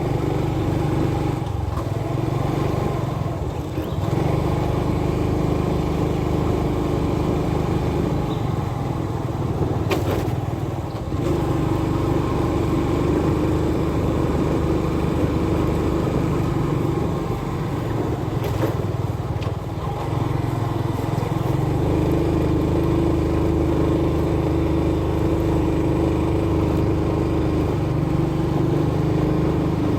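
Motorbike engine running while being ridden, its pitch stepping up and down a few times as the throttle changes, over a steady low rumble.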